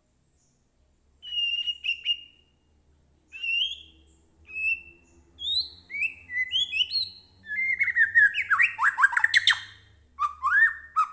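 White-rumped shama (murai batu) in full song: a series of clear whistled phrases, each note gliding up or down, building about seven seconds in to a dense, fast run of rapid notes before further whistles near the end.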